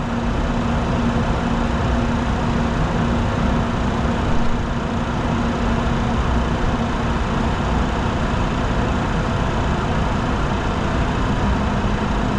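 Steady cockpit noise of a Bombardier Challenger 604 business jet in flight: an even rush of airflow and engine noise, with a steady low hum underneath.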